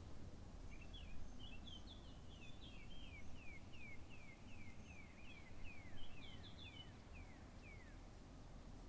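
A small bird singing: a long run of short chirps, each falling in pitch, a little over two a second for about seven seconds, faint against low outdoor background noise.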